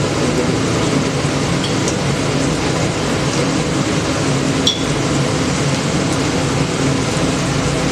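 Steady kitchen noise: an even hiss over a low hum, with a single ringing metal clink of a utensil a little past the middle.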